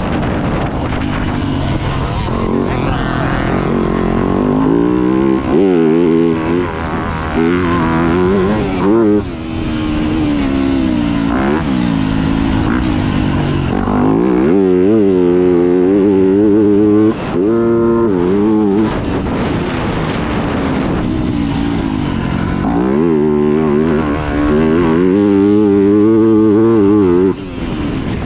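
Yamaha YZ250F's 250 cc single-cylinder four-stroke engine revving hard as the bike is ridden, its pitch climbing and falling again and again with the throttle, and briefly dropping off when the throttle is shut, three times.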